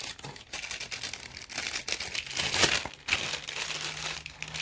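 Packaging crinkling and rustling in irregular bursts as camera accessories are handled and put back into their box, with one louder crackle a little past halfway.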